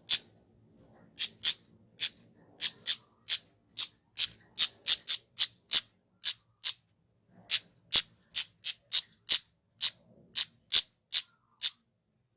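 A flowerpecker (kemade) giving a long series of short, sharp, high-pitched call notes, about two a second and irregularly spaced.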